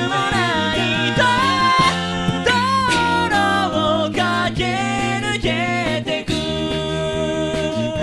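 A cappella group singing a pop song in close vocal harmony, with sung low bass notes underneath and no instruments.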